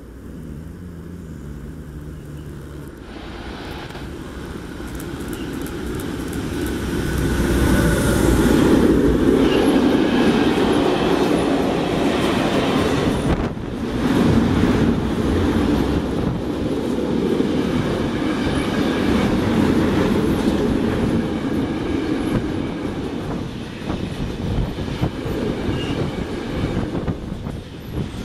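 Freight train passing: an E483 electric locomotive draws near, loudest about eight seconds in, followed by the steady rumble and clatter of a long rake of single-deck car-carrier wagons, with rapid clicks of wheels over rail joints.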